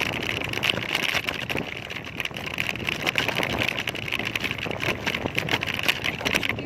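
Motorbike engine running steadily during a ride.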